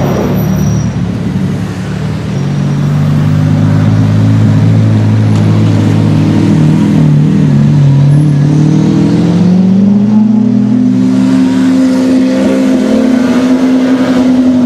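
Lamborghini Aventador V12 engine running at low revs in slow traffic, a steady deep note whose pitch rises about two-thirds of the way through and then holds.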